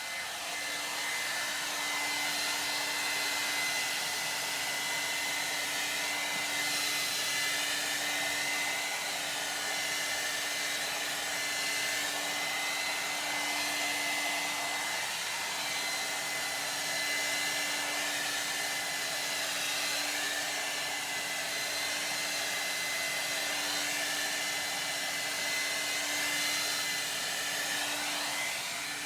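1800-watt ionic hair dryer running steadily as it blow-dries hair: a dense rush of air with a steady hum and a high whine, the rush wavering slightly as the dryer is moved through the hair.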